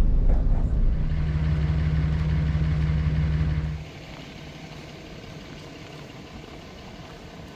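Low, steady rumble of a pickup truck driving. It drops off suddenly about four seconds in, leaving a much quieter low hiss.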